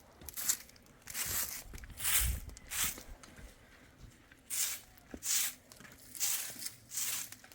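A series of scratchy rustling strokes, about one a second with a short pause midway, like something being brushed, swept or scraped over a rough surface.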